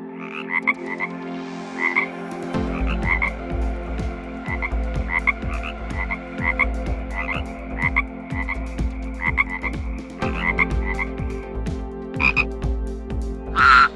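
Frogs croaking: many short calls repeated irregularly, about one or two a second.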